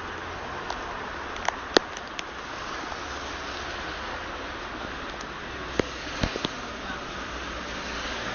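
Sleet falling: a steady hiss of ice pellets, with scattered sharp ticks, about seven, as pellets strike nearby surfaces.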